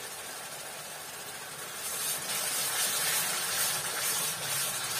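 Fried onion-tomato masala in oil and a little added water sizzling and hissing in a steel kadai while it is stirred with a steel spatula. The sizzle grows louder about two seconds in.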